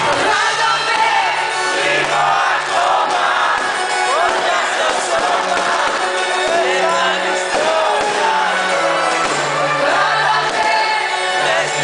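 Live Greek pop music played loud by a band with a steady bass line, with several voices singing over it and crowd noise, as in an audience singing along.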